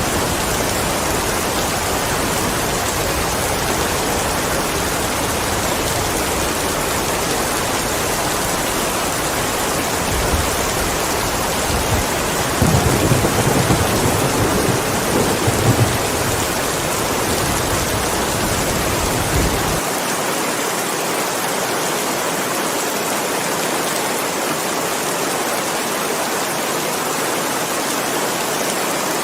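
Steady rainfall hiss, with a rolling rumble of thunder about a third of the way in that swells loudest near the middle and dies away about two-thirds through.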